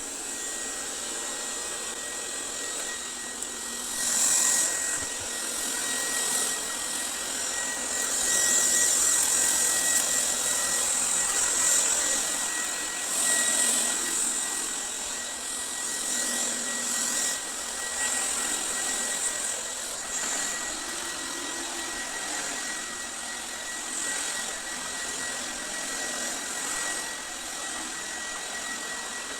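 YTE X580 robot vacuum cleaner running on its gentle (lowest) suction setting while it sweeps up sawdust, dirt and cat hair: a steady motor whine over a hissing rush. It grows louder for a while several times, around four seconds in and again a few seconds later.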